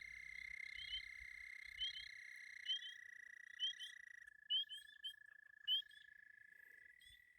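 Frog chorus from a pond: long steady trills overlapping with short rising chirps about once a second. One trill stops about four seconds in while another carries on a little lower.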